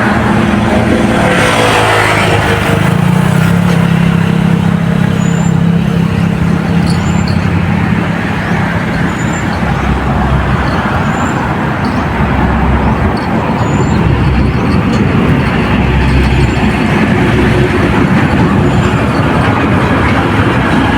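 Steady road traffic noise, with one passing vehicle's engine drone standing out in the first few seconds. A faint high chirp repeats about once a second.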